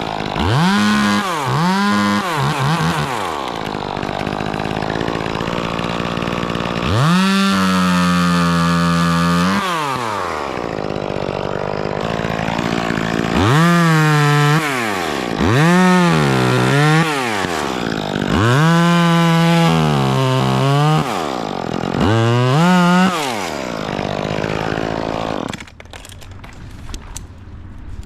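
Chainsaw run in repeated throttle bursts, its pitch climbing and falling back each time, with a longer held run about seven to ten seconds in. It cuts off shortly before the end.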